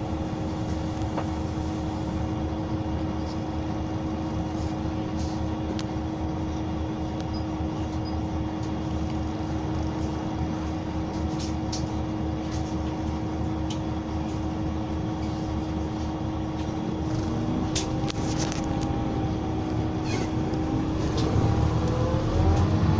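Scania K320 bus's 9.3-litre five-cylinder DC9 diesel running steadily with a constant hum, then rising in pitch and getting louder over the last few seconds as it accelerates.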